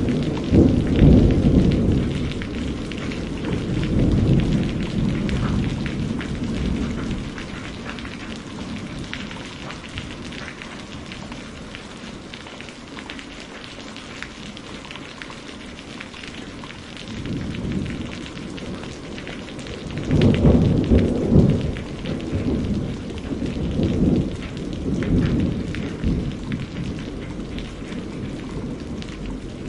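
Steady rain falling, with thunder rumbling heavily over the first few seconds and again in rolling peals about two-thirds of the way through.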